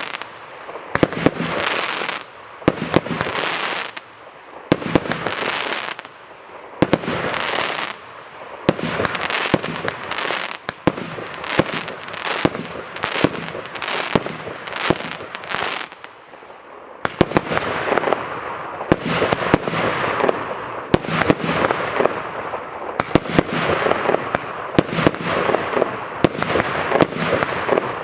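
A 100-shot 1.1-inch firework cake firing: sharp bangs several times a second over a dense hissing rush, easing briefly past the middle.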